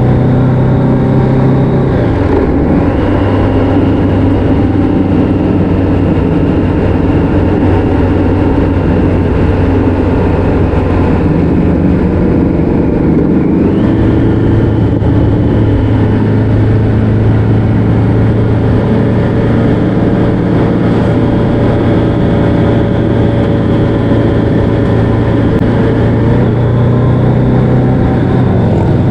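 Motorcycle engine running under way at a steady cruise, its pitch dropping about two seconds in and rising again about halfway through.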